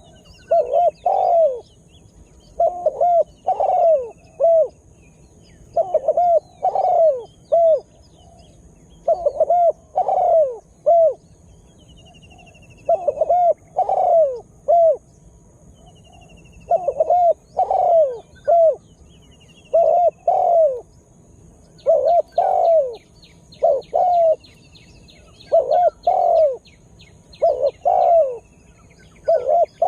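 Spotted dove cooing its song: a phrase of three or four coos, repeated about every three seconds. Fainter chirps of small birds sound higher up, with a rapid trill in the second half.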